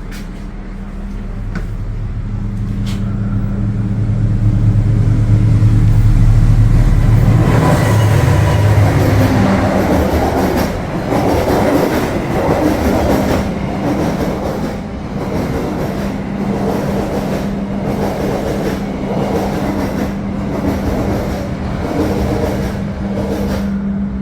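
A train passing close by on the adjacent track. Its diesel locomotive's engine drone grows louder over the first several seconds, then the carriages rattle and clatter past for the rest of the time.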